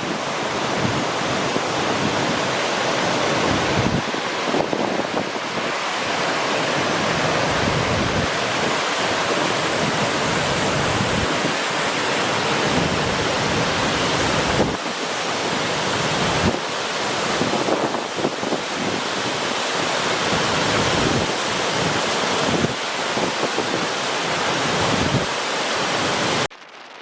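Steady rush of a strong waterfall with wind gusting on the microphone; the sound cuts off abruptly near the end.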